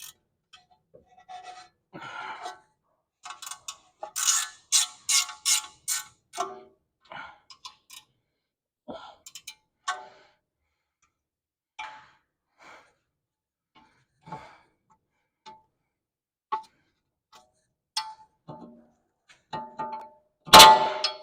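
Hand tools and metal suspension parts being handled: scattered clicks and knocks, a quick run of about six sharp metallic strokes a few seconds in, and one loud metal clang with a short ring near the end.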